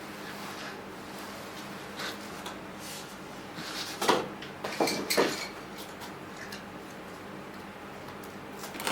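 A few metallic clinks and clatters of hard objects being handled, the loudest bunched together about four to five seconds in, over a low steady hum.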